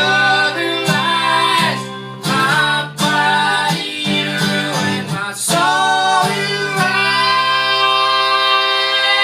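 Acoustic folk band playing live: voices singing over acoustic guitar, settling about halfway through on a long held note.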